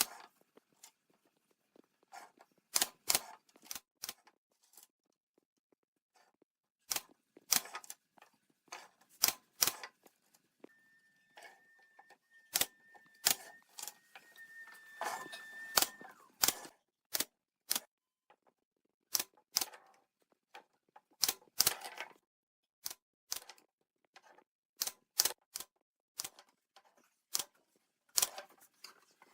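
Tools and wood being handled at a workbench: irregular sharp clicks and knocks, with a steady high whine lasting about five seconds in the middle.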